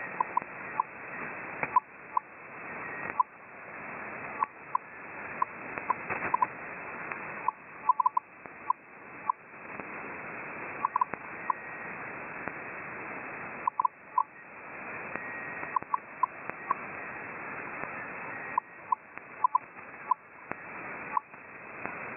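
Unidentified shortwave signal on 9675 kHz received in upper sideband: a hiss that builds and drops away abruptly again and again, broken by short tone pips at one pitch that come irregularly, often in quick clusters of two to four.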